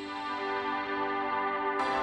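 Background music: soft ambient synthesizer chords held steadily, fading in at the start and filling out near the end.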